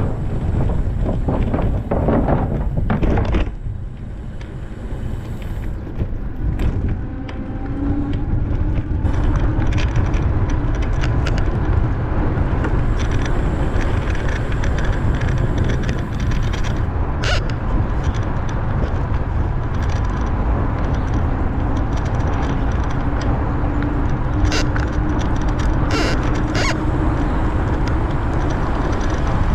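Riding noise from a bicycle on a paved trail: a steady low rumble with scattered clicks and rattles. The rumble drops for a few seconds near the start, and a faint hum rises and falls.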